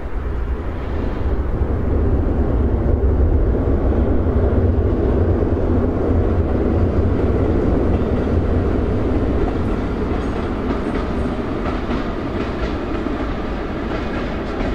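Diesel passenger train passing over a masonry railway viaduct: a deep rumble that builds over the first two seconds, holds, then slowly fades, with a run of light clicks in the later part.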